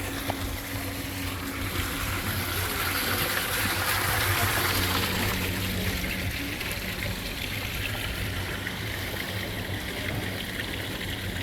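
Water running and trickling steadily, swelling a little for a few seconds partway through, over a faint low steady hum.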